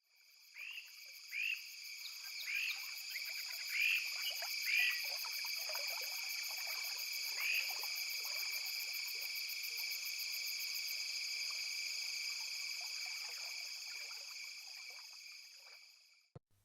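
A dense animal chorus: a steady high trilling, with several louder upward-hooked calls in the first eight seconds, fading out near the end.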